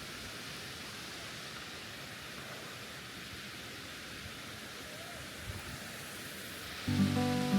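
Steady hiss of rushing water from the falls and the stream below them. Background music comes in near the end.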